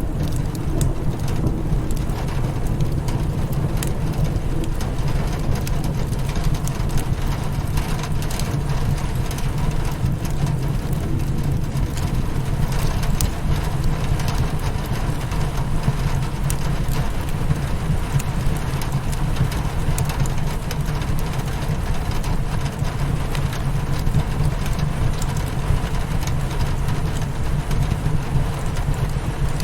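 Rain hitting a windowpane with a crackling fireplace: a steady low rumble underneath and scattered sharp crackles and taps throughout.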